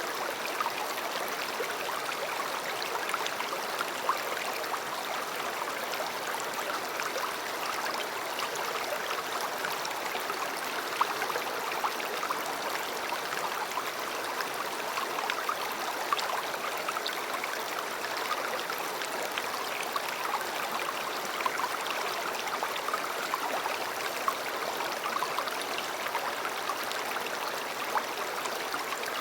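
River water flowing in a steady rush, with many small splashes and gurgles.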